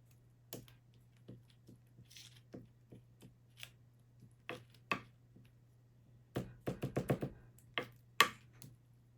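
Scattered light clicks and knocks of small objects being handled, with a quick run of rattling knocks about six and a half seconds in and a sharp click near the end, over a low steady hum.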